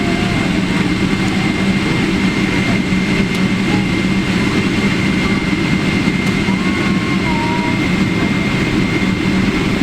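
Boeing 777-300ER's GE90 jet engines heard from inside the passenger cabin: a steady low rumble with a thin, steady high whine over it.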